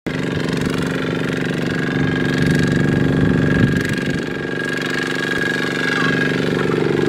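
Single-cylinder diesel engine of a Kubota walking tractor running steadily, with a rapid knocking chug.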